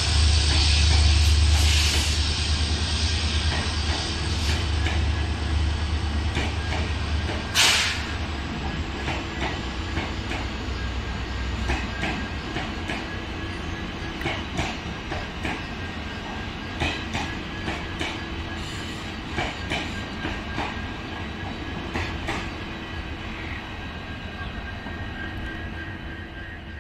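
ICF passenger coaches rolling past on steel wheels: a steady rumble with scattered clicks and clanks from the wheels on the track, one sharp clank about eight seconds in. The low rumble is heaviest for the first seven seconds, and the sound slowly gets quieter after that.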